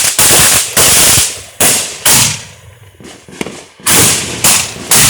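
Consumer aerial fireworks, a 12-shot 350-gram cake fired together with shells, going off as a quick series of about eight loud reports, each one trailing off.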